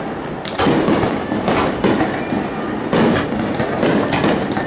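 Aerial fireworks shells bursting at close range: a run of loud booms, with a crackle of smaller reports in between and a cluster of bursts near the end.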